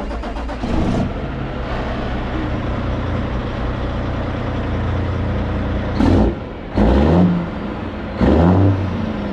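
Truck engine running steadily, then revved in short loud blips from about six seconds in.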